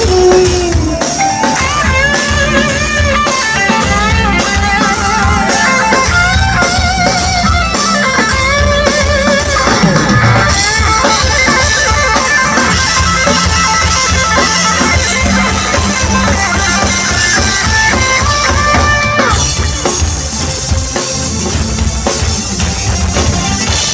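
Live band playing an instrumental passage: drum kit keeping a steady beat under guitar, with a wavering lead melody.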